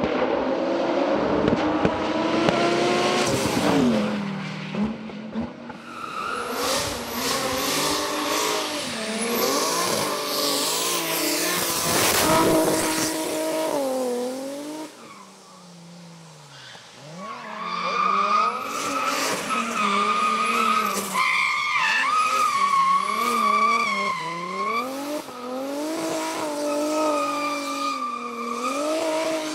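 Hillclimb race car engines revving hard, their pitch climbing and dropping sharply again and again through gear changes, with tyres squealing. The engine sound fades about halfway through, then another car comes up loud.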